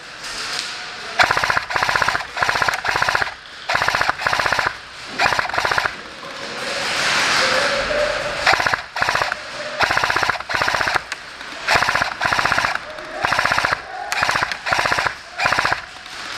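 Airsoft M249 Mk46 electric support gun firing a long string of short full-auto bursts, each well under a second, with brief pauses between them. A steadier rush of noise fills the gap between about six and eight seconds in.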